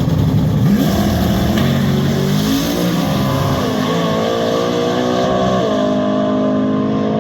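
Twin-turbo 1970 Chevelle's engine pulling hard, its pitch climbing, dropping back about three seconds in, climbing again and dropping sharply once more before holding steady near the end.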